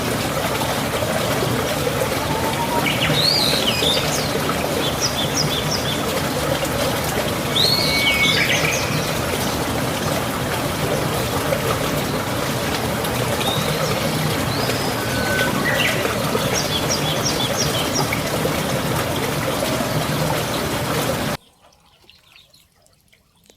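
Birds chirping in quick groups of three or four short notes, with a few swooping calls, over a steady rushing noise like running water. The sound cuts off abruptly near the end.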